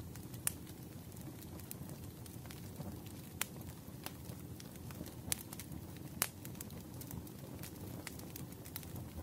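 Wood fire in a fireplace crackling: a steady low rumble with fine ticks and a few sharp pops scattered through, the loudest about six seconds in.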